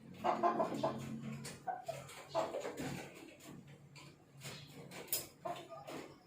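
Chickens clucking in short calls, with a few sharp clicks between them.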